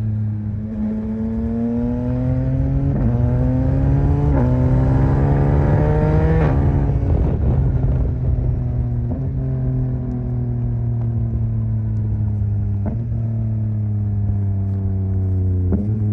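2021 Yamaha MT-09's three-cylinder engine accelerating hard, its pitch climbing with two brief breaks at gear changes about 3 and 4.5 s in. About 6.5 s in the throttle closes and the engine note falls off, with short sharp breaks as it changes down about 9, 13 and 16 s in.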